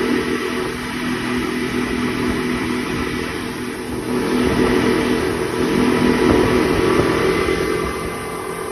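Speedboat engine running under way, a steady hum over a broad rushing noise, growing louder in the middle and easing off near the end.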